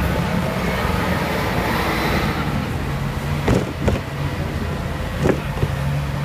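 Hong Kong double-decker tram running along its street track, with a steady motor hum and rolling noise. Three sharp knocks come in the second half.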